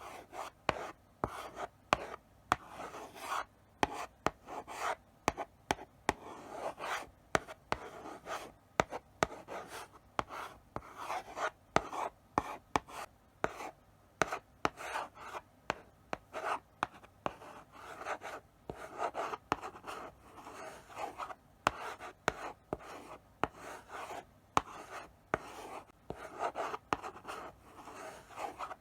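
Chalk writing slowly on a blackboard: short scratchy strokes with sharp taps as the chalk meets the board, several a second in an uneven run.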